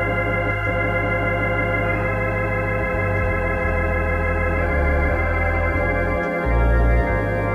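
Organ playing slow, sustained chords with a wavering shimmer, the bass notes moving every second or two and swelling louder for a moment near the end.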